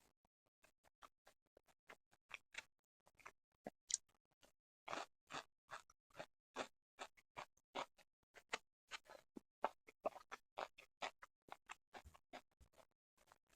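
Close-miked chewing of sushi: an irregular run of short, sharp, wet mouth clicks and smacks, several a second, with no speech.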